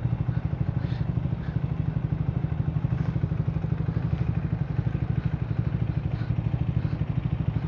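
Triumph motorcycle engine running steadily under way, its exhaust a rapid, even pulsing that eases slightly near the end.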